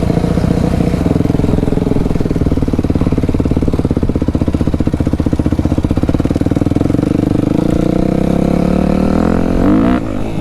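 Dirt bike engine running hard at a fairly steady speed with close, even firing pulses. Its pitch drops shortly before the end as the throttle is closed.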